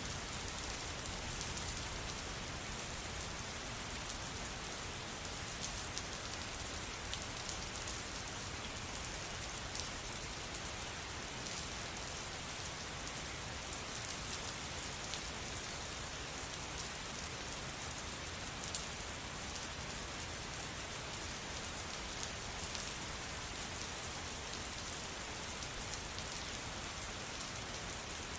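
Steady rain falling, an even hiss with scattered sharper drop ticks, a few of them louder than the rest.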